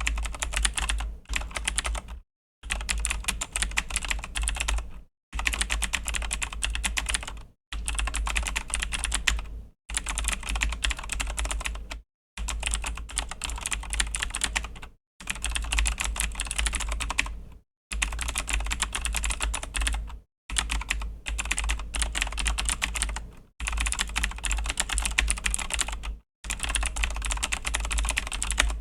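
Rapid typing on a Razer BlackWidow V3 mechanical keyboard with Razer Green clicky switches, a dense stream of sharp key clicks. The typing comes in runs of about two to three seconds with short silent breaks between them.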